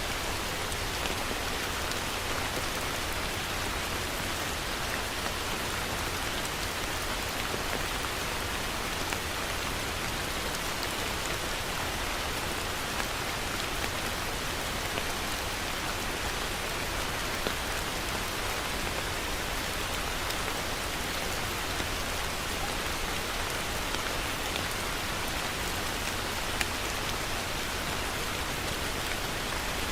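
Heavy rain falling steadily, a dense hiss of drops striking a surface with scattered sharper drop ticks.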